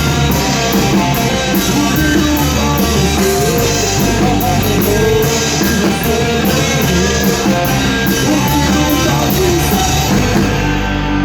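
Rock band playing live in rehearsal: drum kit with steady, evenly spaced cymbal hits driving under distorted guitars. Near the end the drums stop and a guitar is left ringing.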